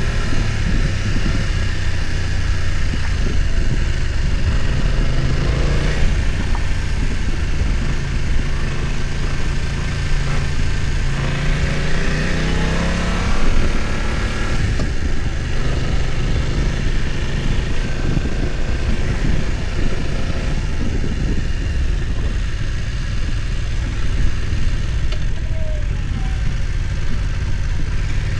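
BMW F900 XR's parallel-twin engine running under way. Its pitch climbs between about ten and thirteen seconds in, then drops back.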